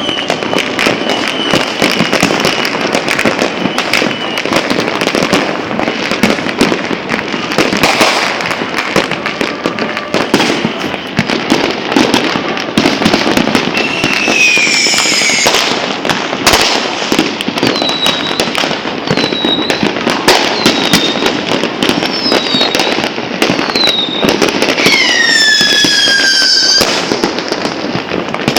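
A dense, continuous barrage of New Year's fireworks and firecrackers, with bangs and crackling overlapping without pause. Whistling fireworks rise above it about halfway through and again near the end, their pitch falling, with a string of short whistles in between.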